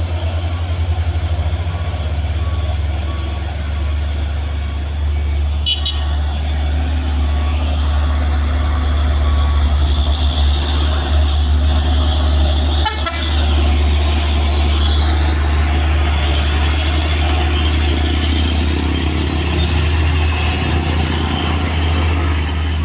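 Truck engine running with a steady deep rumble, with other road traffic around it.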